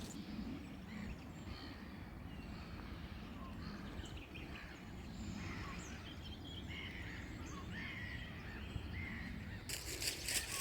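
Birds chirping and calling here and there over a steady low outdoor rumble. Near the end, a rustling noise starts up.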